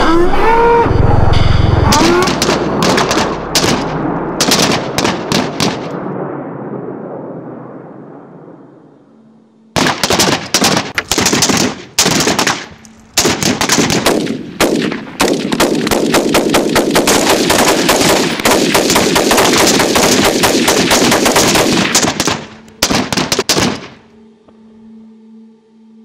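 Rapid machine-gun fire. A first volley thins out and dies away, then long bursts of fast shots with short breaks follow. The firing stops near the end, leaving a faint low hum.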